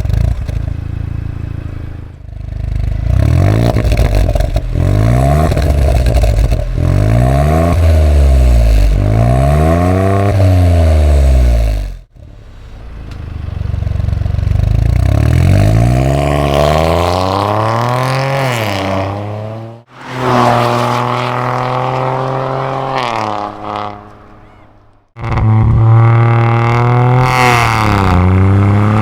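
Proton S70's three-cylinder engine with a Max Racing R553 straight-flow muffler, revved up and down repeatedly in quick blips. In later cut-together clips it climbs and falls more slowly, then runs at a steady engine speed.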